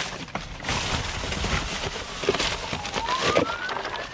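Trash rustling and knocking as bags are dug through in a dumpster, with a distant siren wailing, its pitch rising over the last second or so.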